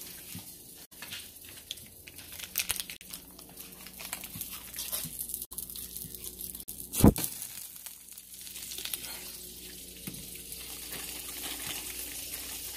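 Packaging crinkling and rustling, with a frying pan sizzling underneath and scattered clicks. One sharp loud knock sounds about seven seconds in.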